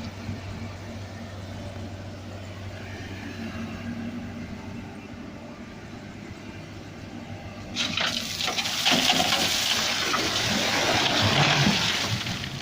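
A dump truck's engine running with a steady low hum, then, about eight seconds in, a loud rushing noise starts suddenly and goes on for several seconds.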